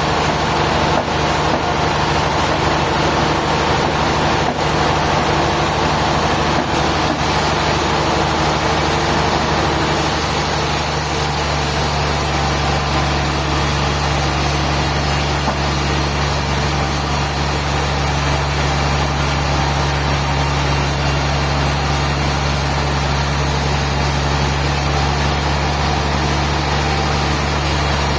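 Sawmill machinery running steadily, with a constant low engine hum under a broad mechanical noise. About ten seconds in the hum deepens and grows stronger.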